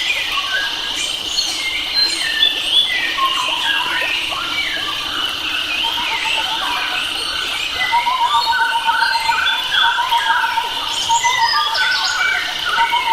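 A chorus of wild forest birds singing and calling over one another: many short chirps and whistles, some rising and some falling, over a steady high hum. About eight seconds in, a fast trill of quickly repeated notes joins and keeps going.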